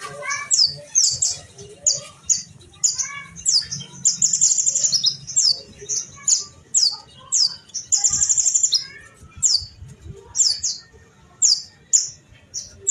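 Kolibri ninja sunbirds calling hard at each other: a rapid run of sharp, high chirps broken by short buzzy trills, with fainter lower warbling notes underneath.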